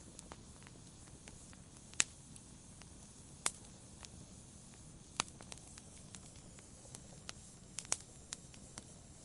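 Wood campfire burning, with sharp, irregular crackles and pops from the burning wood over a faint low hiss of the fire.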